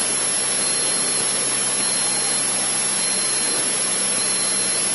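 Cessna 152 cockpit noise from its four-cylinder Lycoming engine and the rushing air, heard in flight on the approach as a steady hiss over a low, even hum.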